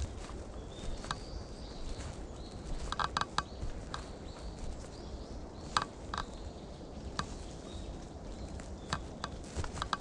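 Short, faint bird chirps in the first few seconds, with occasional crunching footsteps on a woodland path.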